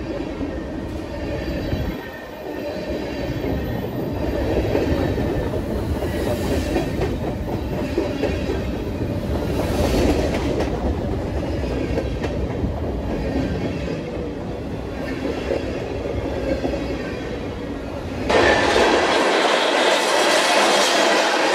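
Train passing on the rails: a steady deep running noise of wheels and cars, with clicking over rail joints and some wheel squeal. About eighteen seconds in the sound changes suddenly to a brighter, hissier rail noise with the deep part gone.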